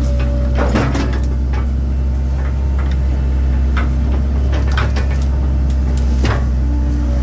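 A 1997 Link-Belt 2700 excavator's diesel engine running steadily, with scattered sharp knocks and cracks as the machine works through wood and brush.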